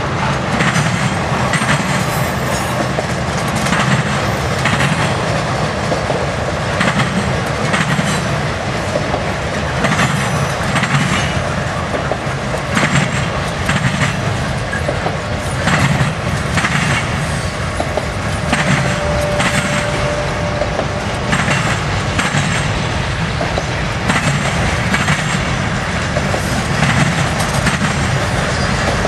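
Freight train cars rolling past close by, a steady rumble with steel wheels clacking over rail joints every second or two. A brief thin wheel squeal about two-thirds of the way through.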